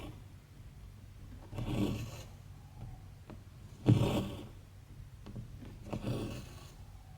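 Embroidery thread being pulled through cross-stitch fabric by hand: three pulls, each about half a second long and about two seconds apart, the middle one loudest.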